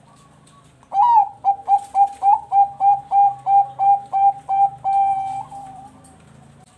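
Zebra dove of the Thai 'perkutut bangkok' song line giving its song: a fast run of about fourteen short, clipped cooing notes, ending in one longer held note that fades out.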